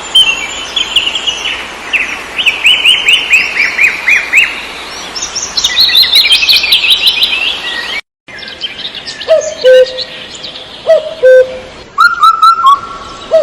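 Several songbirds singing: rapid runs of falling chirps, then, after a sudden break about eight seconds in, lower whistled notes and short calls.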